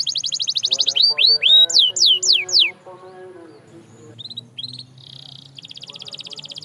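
Canary singing: a fast trill of high repeated notes, then several loud whistles sweeping downward. After a brief quieter pause about three seconds in, a fast buzzy trill starts again near the end.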